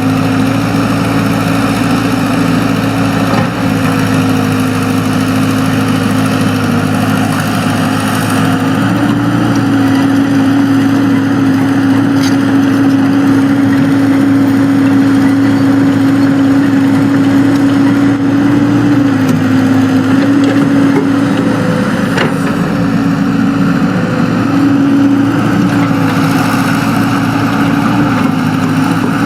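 Excavator's diesel engine running steadily, its pitch rising a little about a third of the way in, dropping back about two thirds in and rising again near the end as the engine speed changes under work, with a few faint clanks.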